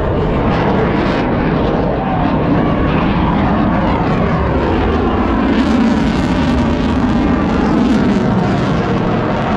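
Airplane flying past, loud continuous engine noise whose pitch sweeps down as it passes.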